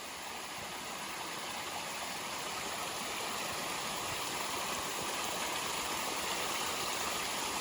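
Small mountain stream with a little waterfall, water flowing as an even rush that grows slowly louder.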